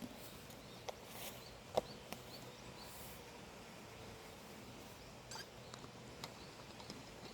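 Quiet mountain-morning ambience with small birds giving short, high, rising chirps, several in quick succession in the first three seconds and a few more near the end. A few sharp clicks or taps stand out, the loudest about two seconds in.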